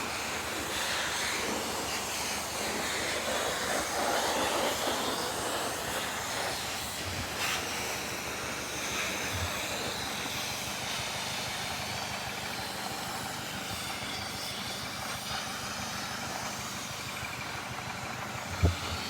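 Mazda 6 MPS's turbocharged 2.3-litre four-cylinder engine idling steadily, heard as a low, even hum under a hiss.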